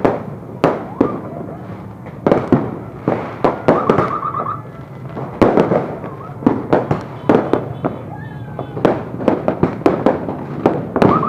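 New Year's fireworks going off in a rapid, irregular barrage of sharp bangs and pops, with a few short warbling whistles among them.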